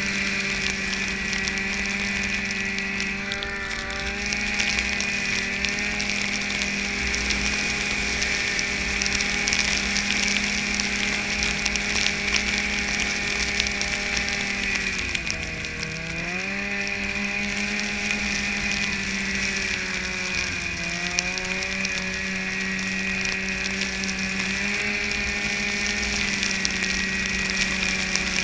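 Snowmobile engine running at steady speed, its note dipping briefly about halfway through and again a few seconds later as the throttle eases off and comes back on.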